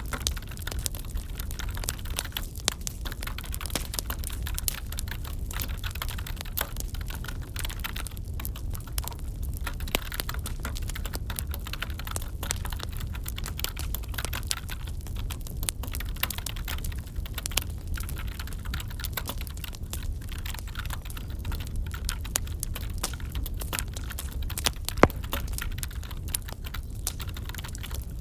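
Computer keyboard typing, a dense irregular patter of key clicks, mixed with the crackle of a wood fire over a steady low rumble. One sharper pop comes near the end.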